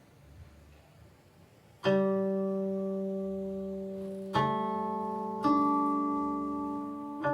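Guqin, the seven-string Chinese zither, plucked: after a short hush, four notes sound about a second or two apart, each ringing on and slowly fading under the next.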